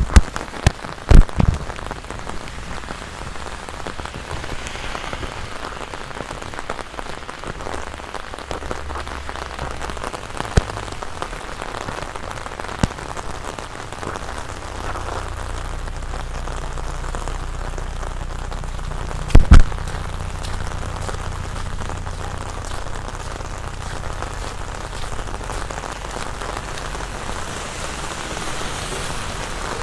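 Heavy rain falling steadily on a large umbrella and the ground around, an even hiss of drops, with a few sharp loud knocks about a second in and another just before the middle.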